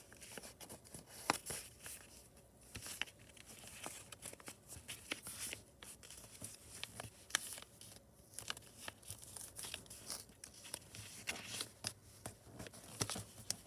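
Sheet of paper being folded and creased by hand: faint, irregular crinkles and sharp little crackles as the folds are pressed flat.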